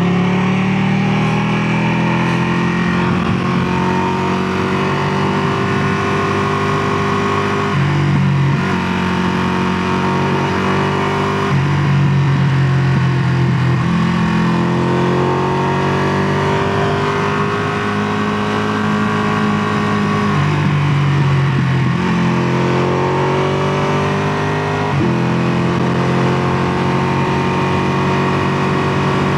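Ducati Panigale 959's Superquadro L-twin engine running under load, its pitch climbing and then holding, with several sudden steps in pitch about 8, 11, 21 and 25 seconds in.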